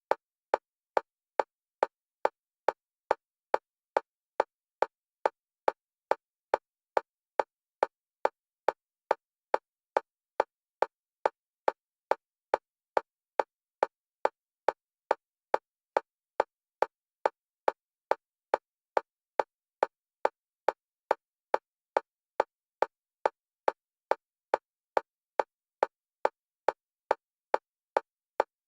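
Fast metronome clicks for EMDR bilateral stimulation, evenly spaced at a little over two a second at a steady level, alternating between the left and right stereo channels.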